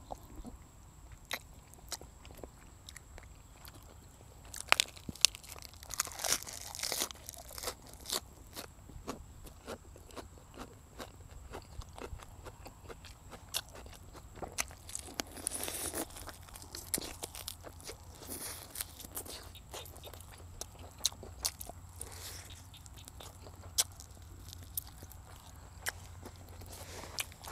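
Close-miked eating: a person biting and chewing meat, with many sticky mouth clicks and smacks throughout and two stretches of denser crunching about six and fifteen seconds in.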